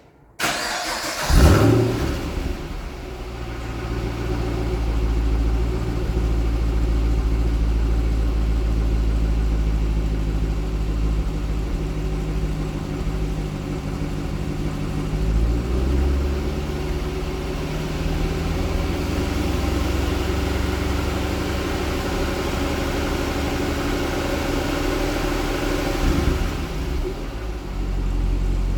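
Holden VF Commodore SS-V Redline's 6.2-litre LS3 V8 on its standard exhaust, starting with a quick crank and a flare of revs, then idling steadily. About halfway through, the idle steps down to a lower, deeper note as the fast start-up idle settles.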